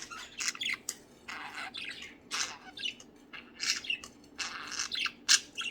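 Budgerigars chattering: a flock of pet budgies giving short, scattered squawks and chirps, several calls a second.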